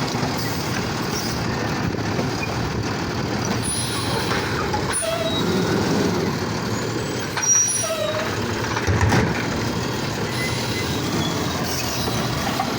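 Garbage truck running, with a few brief squeaks and two short louder surges, about seven and a half and nine seconds in.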